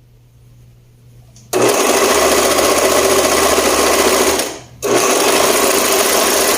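Overlock sewing machine (serger) stitching a shoulder seam: it starts up loud and steady about a second and a half in, stops briefly past the midpoint, then runs on again.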